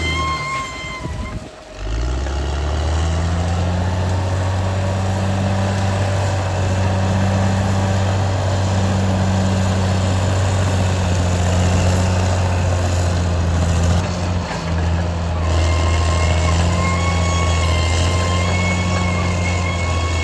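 Caterpillar D6R XL bulldozer's diesel engine running steadily under load with a deep drone, and a high steady whine from the machine that fades out early and comes back near the end.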